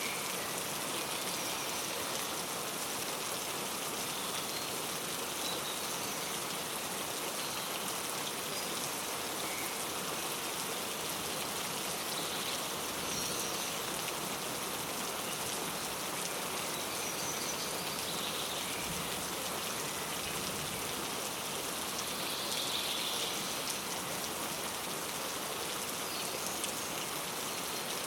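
Steady rain falling, with a few faint bird chirps scattered through it.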